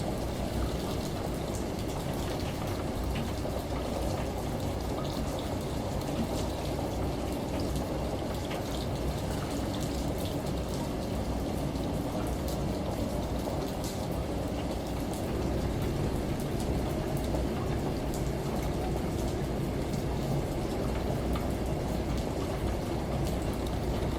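Layered home ambience of rain, a running shower and a washing machine. Steady water noise runs with a low hum underneath and scattered small drip ticks, with no change throughout.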